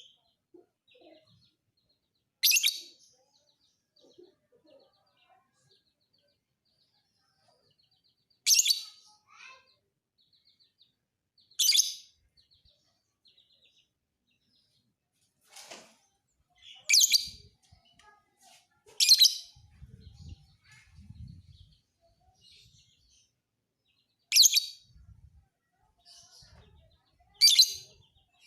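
Lovebird calling: seven loud, short, high-pitched chirps a few seconds apart, with soft twittering between them.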